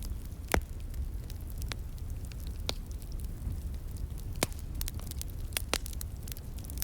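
Wood fire crackling, with irregular sharp pops over a steady low rush. The loudest pop comes about half a second in.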